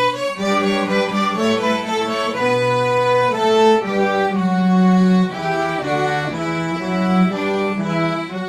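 Youth string orchestra playing: violins carry the upper line over cellos and basses, in held notes that change pitch about every second.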